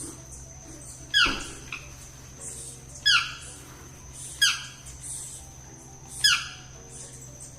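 Yellow-throated toucan giving four loud yelping calls, each falling sharply in pitch, spaced about one and a half to two seconds apart.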